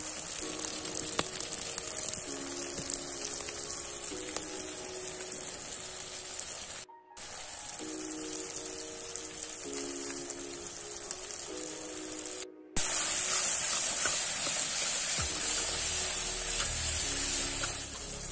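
Onion-tomato masala sizzling steadily in oil in an aluminium kadai over a wood fire, louder in the last few seconds. A light background melody plays over it, and the sound drops out briefly twice.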